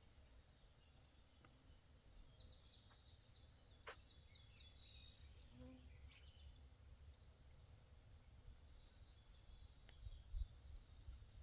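Faint small-bird chirps: a quick run of high notes about a second in, then a few single chirps, over a low outdoor rumble. One sharp click near the middle.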